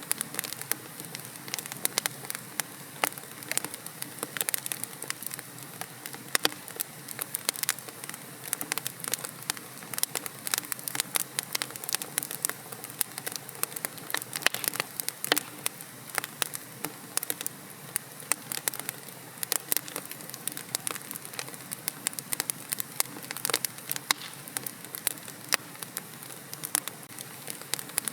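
Wood fire burning in a fireplace, crackling and popping irregularly over a steady low hiss.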